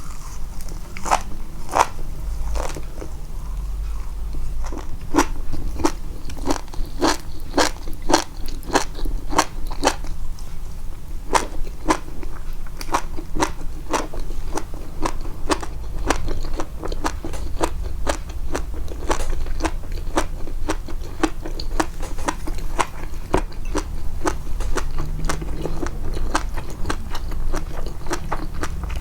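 A person chewing crunchy food close to the microphone, the chewing sounds boosted in the edit: sharp, irregular crunches about once or twice a second.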